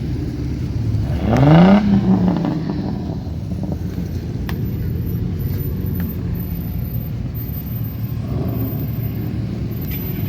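Car engines running with a steady low rumble, one of them revving briefly, its pitch rising and then levelling off, about a second and a half in.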